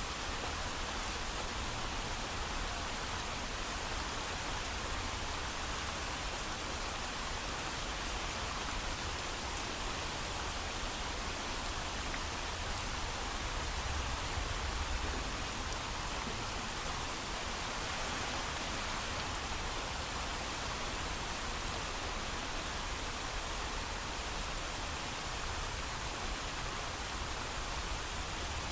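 Steady heavy rain, an even hiss with a low rumble underneath and no thunder.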